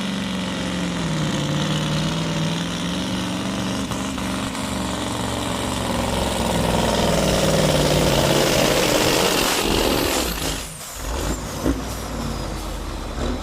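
Supersport pulling truck's diesel engine running hard under load on the weight sled, its pitch wavering, growing loudest about seven to nine seconds in, then cutting back sharply near the end.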